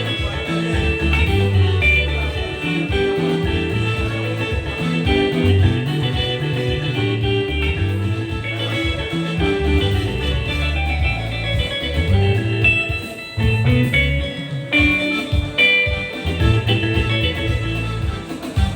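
Sebene-style guitar music: plucked electric guitar lines, high and quick, over a steady bass line.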